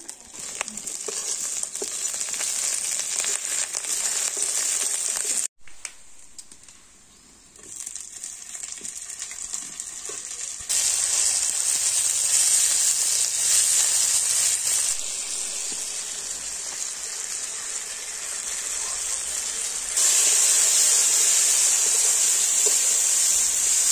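Tomato pieces and onions sizzling loudly as they fry in hot oil in a metal wok, with a metal spatula stirring and scraping. The sizzle cuts out suddenly about five seconds in, then comes back and gets louder twice.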